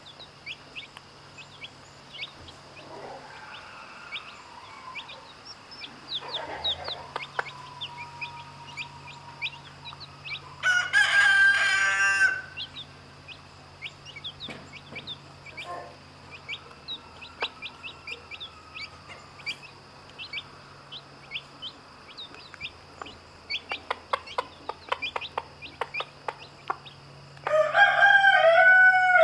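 Rooster crowing twice, once about eleven seconds in and again near the end, over steady high-pitched peeping of chicks. A few softer, lower calls come in between.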